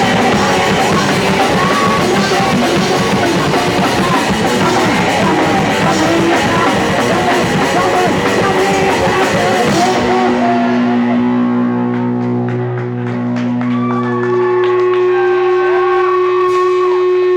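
Punk rock band playing live: fast, loud distorted guitar and drum kit. About ten seconds in the playing stops, and steady held tones from the guitar amplifiers ring on, like feedback.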